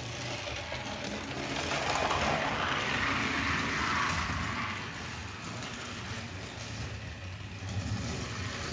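Battery-powered Trackmaster motorized Emily toy engine running along plastic track, its small motor whirring and wheels rattling steadily; it gets louder about two seconds in and eases back down after about four and a half seconds as it passes close by.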